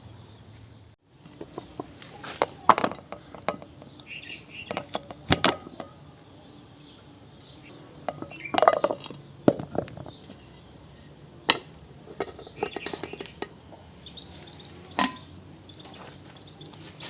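Cooking utensils and dishes clinking and knocking, a series of separate sharp taps spread out over several seconds.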